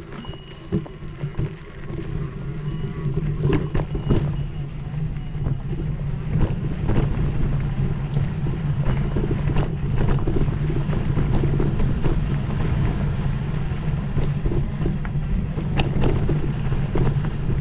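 Mountain bike descending a dirt trail: wind rushing over the microphone and tyres rumbling, building up about two seconds in as speed picks up, with frequent clicks and knocks of the bike rattling over rough ground.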